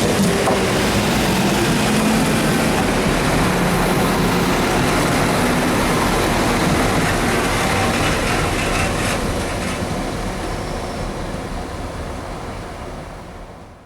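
NIR 80 Class diesel-electric multiple unit passing, its engine and running gear loud and steady, then fading away over the last few seconds.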